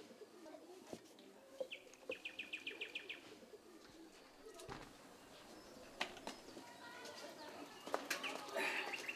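Faint outdoor ambience with birds, including a quick run of about eight high chirps a couple of seconds in, and scattered light clicks.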